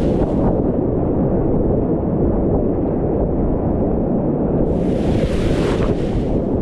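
Loud, steady rush and rumble of whitewater rapids. About five seconds in there is a sharper hiss of splashing water that lasts about a second and a half.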